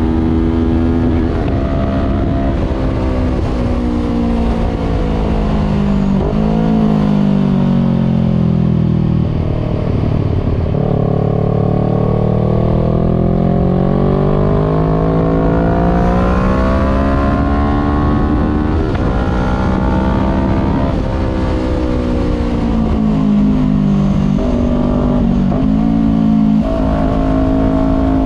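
Voge 500R's parallel-twin engine running through a full exhaust with the dB killer removed, heard on board while riding. The engine note falls slowly as the bike slows, then climbs again under throttle, with several quick steps in pitch from gear changes near the end.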